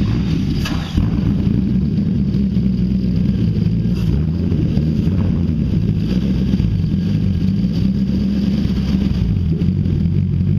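Nissan VK45DE 4.5-litre V8 firing up at the very start, flaring briefly about a second in, then idling steadily.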